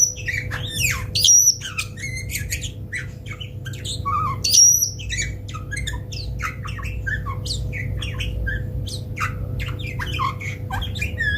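Bulbul calling in a rapid run of short chirps, whistled notes and harsher squawky notes, with a few louder calls about a second and four and a half seconds in. A steady low hum runs underneath.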